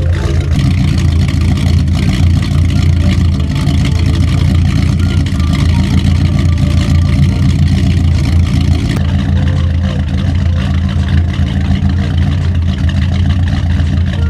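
Mercruiser 350 small-block 5.7-litre V8 inboard engine of a wooden motorboat running steadily.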